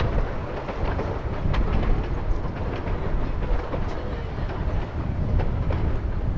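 Narrow-gauge train rolling on the track: a steady low rumble with irregular clicks and knocks from the wheels and cars.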